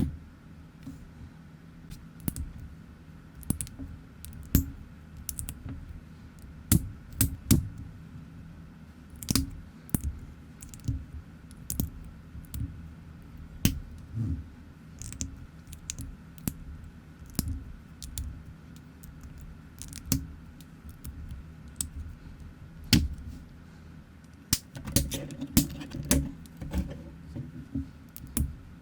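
Plastic building bricks clicking and snapping together, with pieces tapped and shuffled by hand at an uneven pace, in a quick flurry near the end.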